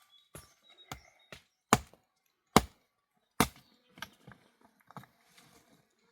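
A series of sharp, irregularly spaced blows, about nine in all, the three loudest coming about a second apart near the middle, like chopping.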